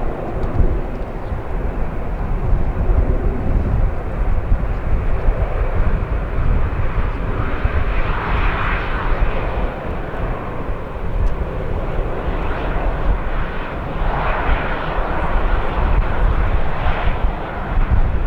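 Jet engines of a Boeing 737-800 running, swelling louder twice, about halfway through and again near the end, over a heavy rumble of strong wind buffeting the microphone.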